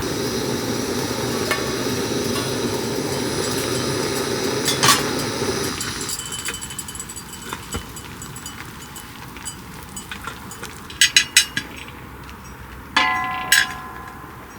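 Cookware and utensils clinking and knocking while food is prepared, after a steady hiss that stops about six seconds in. Near the end a dish rings out when struck, fading over about a second.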